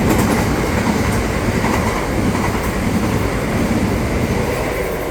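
Passenger train running through the station without stopping: a loud steady rush of wheels on rail with some clattering, easing off slightly near the end.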